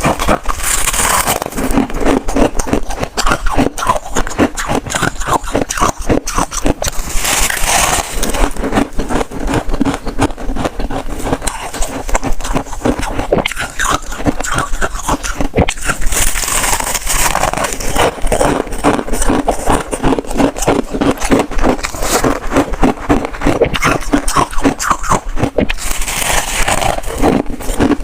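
Close-miked chewing of freezer frost: dense, continuous crunching made of many small cracks.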